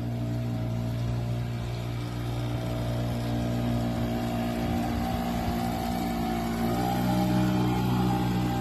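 An 18 hp two-stroke outboard motor running at a steady speed, its pitch rising slightly about two-thirds of the way through.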